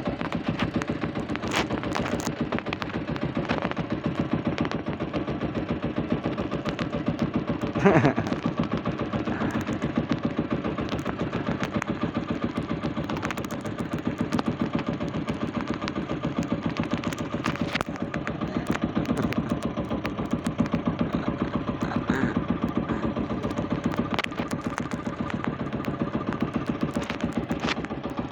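Small fishing boat's engine running with a rapid, even chugging. A single louder knock about eight seconds in.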